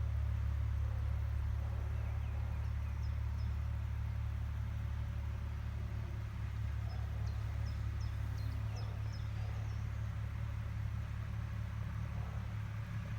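Agricultural machine's engine running with a steady low drone, easing off slightly in the second half. Faint bird chirps come in briefly a few seconds in and again around the middle.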